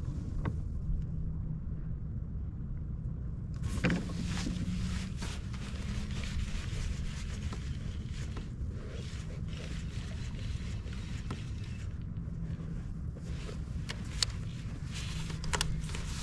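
A kayak under way on open water: a steady low hum with water and wind noise, and a few sharp knocks, the clearest about four seconds in.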